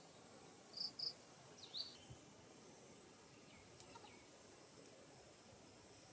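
A few short, high chirps from a small bird: a quick pair about a second in, another just after, and fainter ones around four seconds, over a faint steady outdoor hiss.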